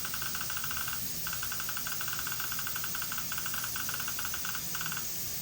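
Intraoral scanner capturing a patient's gum ridges: a rapid run of short high beeps over a steady hiss, pausing briefly about a second in and stopping about five seconds in.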